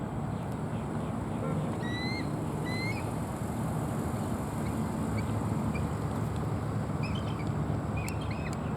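Bald eagle calling: a few short, high, upward-bending chirps about two seconds in, then fainter chirps near the end, over a steady low rumble.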